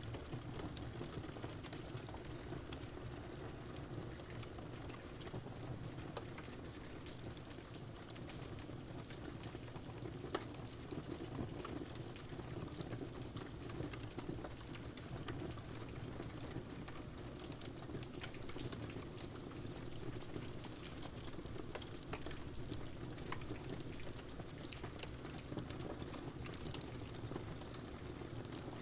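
Fire crackling, with scattered sharp pops and one louder crack about ten seconds in, over a steady hiss of rain.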